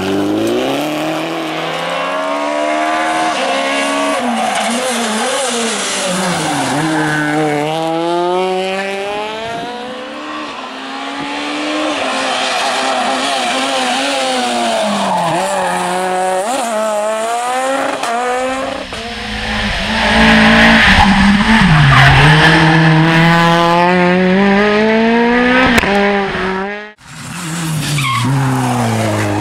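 Rally car engines at full effort on a special stage, revving up and dropping back repeatedly through gear changes, braking and acceleration, with tyre squeal. It is loudest about two-thirds of the way through as a car passes close. Near the end the sound breaks off abruptly and another engine starts climbing.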